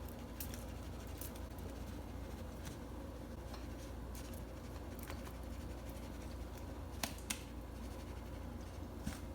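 Compressed laundry starch being bitten and chewed: scattered sharp, crisp crunches a second or two apart, two close together about seven seconds in, over a steady low hum.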